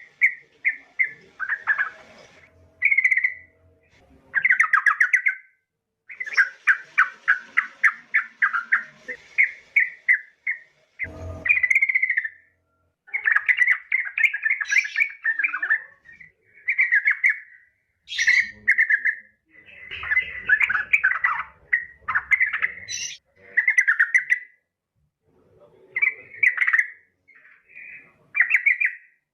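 Yellow-vented bulbul calling: bursts of short, bright chirping notes, some strung into fast chattering runs, with brief pauses between.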